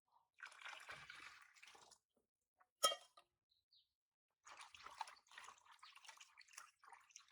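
Water splashing and dripping softly as a baby monkey is washed, in two short stretches, with one sharp click about three seconds in.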